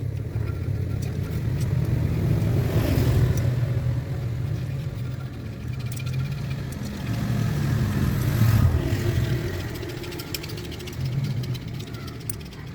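Motor vehicle engine running with a low rumble that swells twice, about three and eight seconds in, then fades toward the end.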